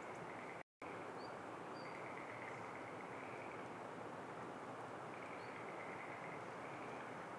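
Steady outdoor background noise with a few faint, short, high bird chirps. The sound cuts out completely for a moment just under a second in.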